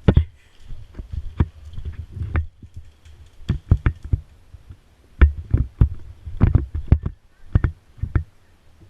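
A run of irregular sharp knocks and clicks, about two a second, each with a low thump under it.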